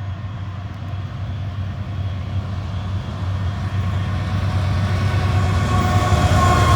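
Diesel locomotives of a Norfolk Southern intermodal train, led by a GE AC44C6M, approaching with a deep steady engine drone that grows steadily louder.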